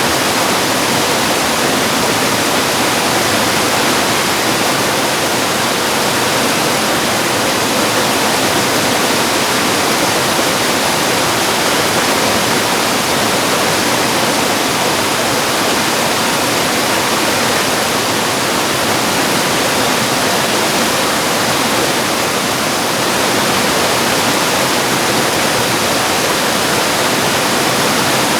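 Mountain stream rushing over rocks and small falls: a steady, dense sound of water.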